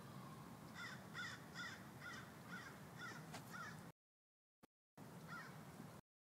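A bird calling over and over in the distance: about seven short calls a little under half a second apart, then one more after a pause. The sound cuts out to dead silence for about a second near the middle and again briefly near the end.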